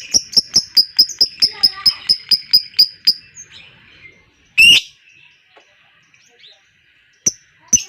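Lovebird's long rapid chattering trill ('ngekek'), an even run of high notes at about five a second, which breaks off about three seconds in. After a pause comes one loud single call, then another near the end as the chatter starts up again.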